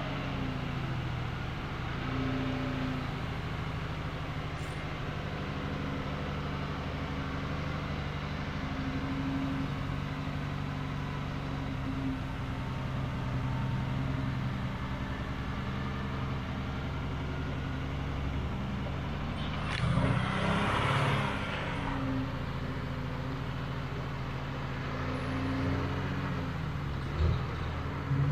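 Mercedes-Benz Unimog 404 truck engine running under way, its pitch rising and falling with the throttle and gear changes. About twenty seconds in there is a brief rush of noise, and near the end a single knock.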